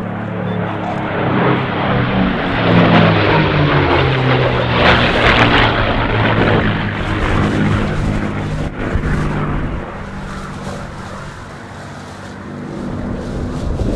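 P-51D Mustang's Packard-built Merlin V-12 flying past, its engine note dropping in pitch as it goes by. It is loudest a few seconds in, fades, then swells again near the end.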